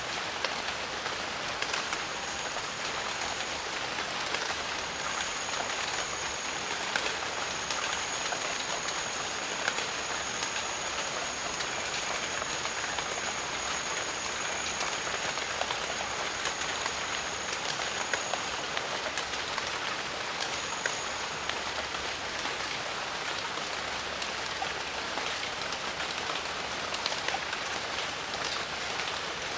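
Steady rain falling in a jungle: an even hiss sprinkled with the ticks of single drops. A thin, steady high tone sounds over it from about two seconds in until a little past halfway, then once more briefly.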